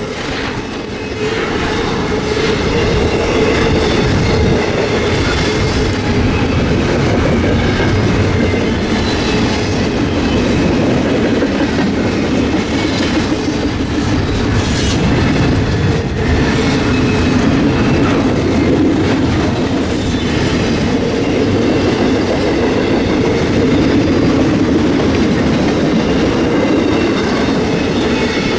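Freight train cars rolling steadily past, the wheels clacking over the rail joints.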